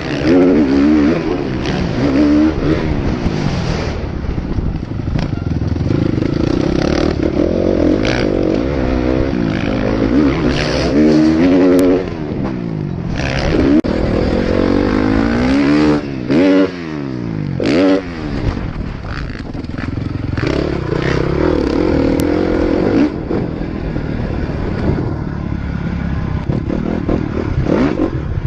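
Motocross bike engines revving hard and backing off, over and over, the pitch rising and falling in quick sweeps.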